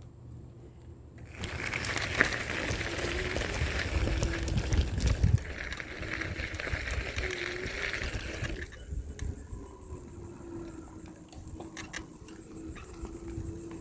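Riding a bicycle: wind rushes over the microphone with a low rumble for several seconds, then drops away about nine seconds in, leaving a steady low hum and a few light clicks.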